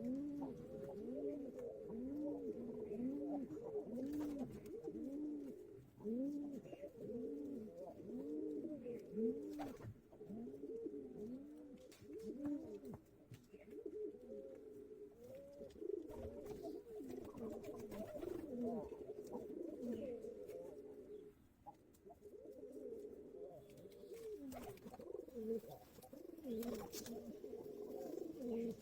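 Pigeons cooing, many coos overlapping in steady succession, each a short note that rises and falls in pitch, with a few sharp clicks here and there.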